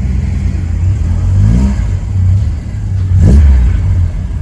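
Classic car engines running close by, with an engine briefly revving up twice: about a second and a half in, and again, louder, a little past three seconds in.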